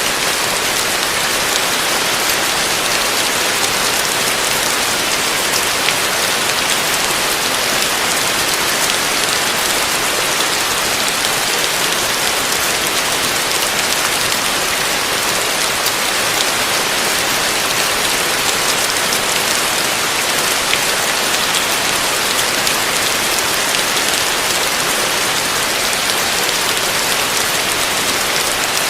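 Heavy rain falling steadily: a dense, even hiss of countless drops, with no let-up and no thunder.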